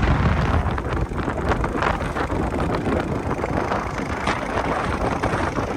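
Wind buffeting the microphone on a moving motorbike, a steady rumbling rush with scattered crackles, with road and vehicle noise underneath.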